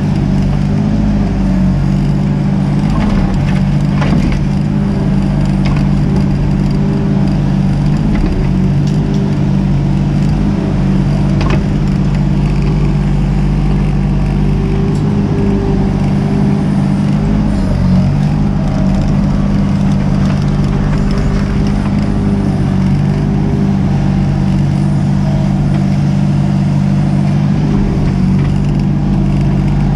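Mini excavator's diesel engine running steadily, its pitch wavering a little under working load, with a few short knocks and clanks along the way.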